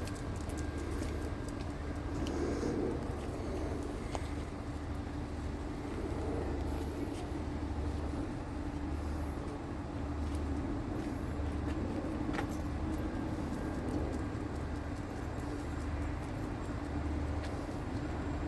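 Steady vehicle engine noise with a low throb that pulses about once a second.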